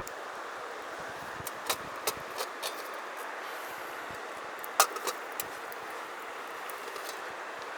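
Steady rush of flowing river water, with a handful of sharp clicks and clinks over it, the loudest a little under five seconds in.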